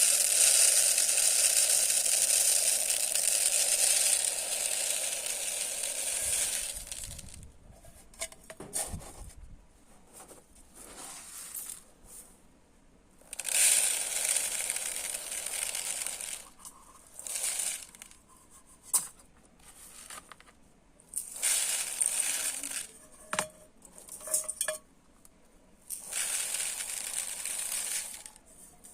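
Dry rice grains poured in four long, steady streams, the first lasting about seven seconds, with quieter scooping and a few light clinks of the scoop against the container between pours.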